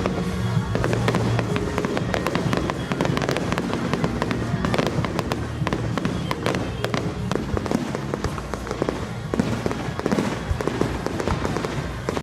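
Fireworks display: dense, continuous crackling with sharp bangs, one louder bang about nine seconds in, over music, cutting off abruptly at the end.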